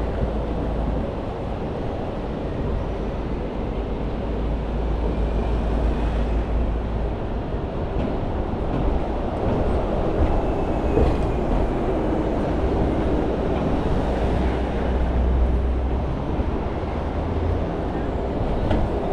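Steady low rumble of city street traffic, with faint voices of passers-by.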